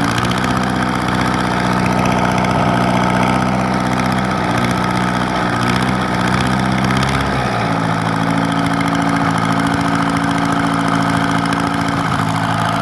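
Engine idling steadily; its tone shifts slightly, losing some of its low rumble, about seven and a half seconds in.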